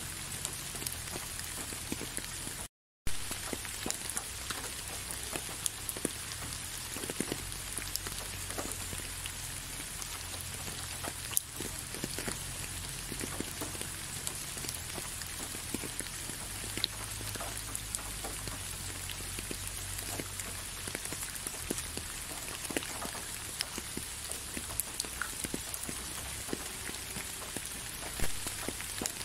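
Steady rain falling, with many separate drops ticking close by over an even hiss. The sound cuts out completely for a fraction of a second about three seconds in, then carries on unchanged.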